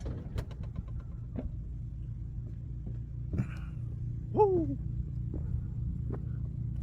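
An engine idling with a steady low rumble, with a few light clicks and a short falling whine about four and a half seconds in.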